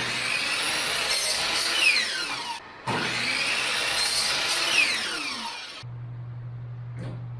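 A tool cutting wood in two passes of about three seconds each, with a short break between them, then a quieter steady low hum near the end.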